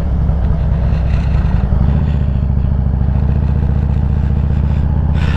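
Harley-Davidson Road Glide Special's V-twin engine running steadily at low road speed, a low even beat that settles about two seconds in.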